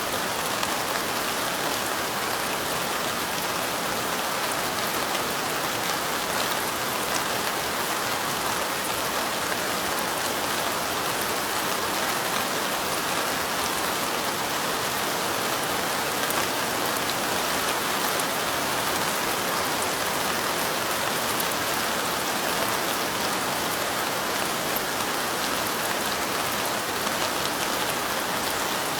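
Steady light rain, many small drops pattering at an even level.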